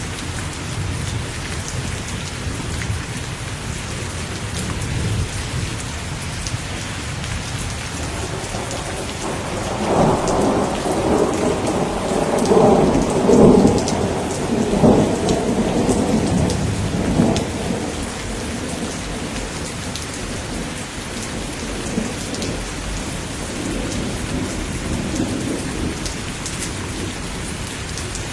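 Steady heavy rain hissing, with a long roll of thunder that swells up about a third of the way in, peaks near the middle, and dies back down.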